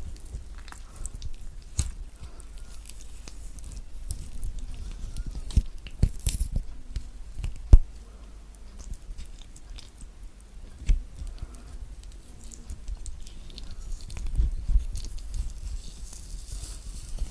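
Close-miked fingers tearing and pulling thick peel and pith off orange pieces: irregular moist crackles, snaps and rustling, with a few sharper clicks.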